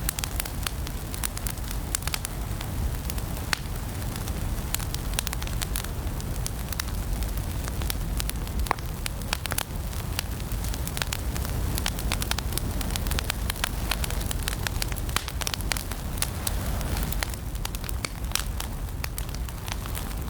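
Wood fire burning in a fireplace, crackling: frequent sharp pops and snaps at irregular intervals over a steady low rumble of the flames.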